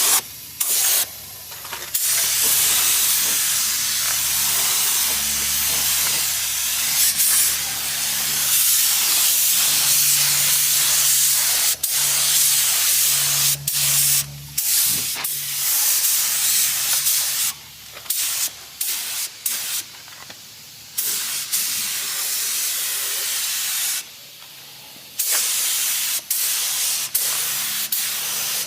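Harbor Freight Black Widow paint spray gun hissing with compressed air in long spray passes. The hiss stops briefly a few times as the trigger is let off.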